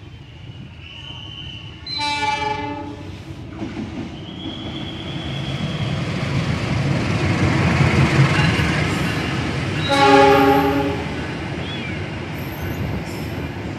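Diesel locomotive of a passenger train sounding its horn in a short blast about two seconds in and again about ten seconds in. Between the blasts the rumble of the engine and wheels builds as the train rolls in alongside the platform.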